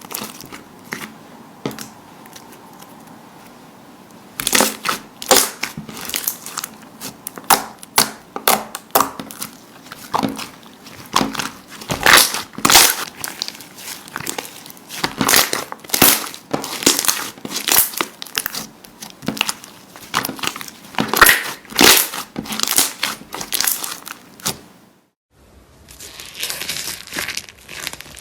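Slime being squeezed and pressed by hand, making sticky crackling and crunching pops. It starts with a few scattered clicks, turns into dense, irregular crackles about four seconds in, and stops briefly near the end before a softer, steadier crackle.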